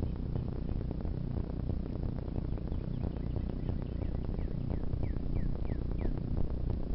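A bird calls a run of short, falling chirps, about eight of them, from about halfway in. Under the calls runs a steady low rumble with frequent small crackles and clicks.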